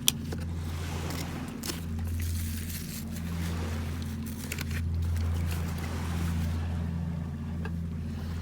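A boat's engine droning steadily at a low pitch, with a hiss of wind and water over it. One sharp click comes right at the start.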